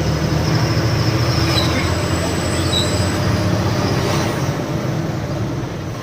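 Loaded truck driving on the road: a steady, low drone of engine and road noise.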